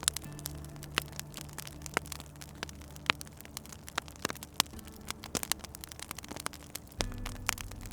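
Wood fire in a fireplace crackling, with many irregular sharp pops and snaps, over a low steady hum that changes pitch about seven seconds in.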